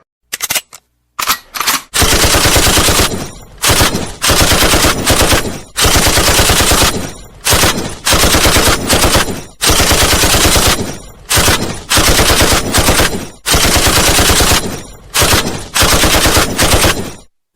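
Machine-gun sound effect: a few single cracks, then about a dozen bursts of rapid automatic fire, each lasting around a second with short pauses between.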